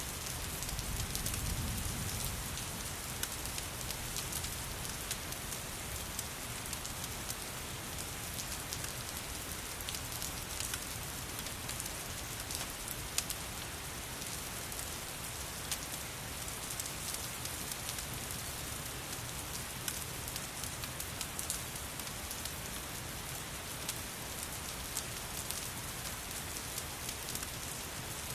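Steady rain, with sharp crackles and pops from a wood fire scattered through it. A low rumble swells briefly in the first couple of seconds.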